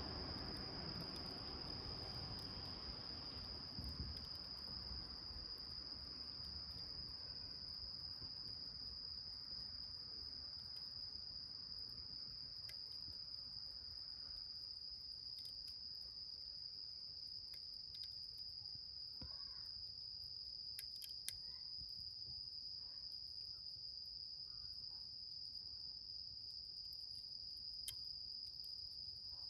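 Crickets chirping in a steady, unbroken high trill. A few sharp pops from the small fire burning in the can come through, one at about 4 seconds, one at about 21 seconds and one near the end.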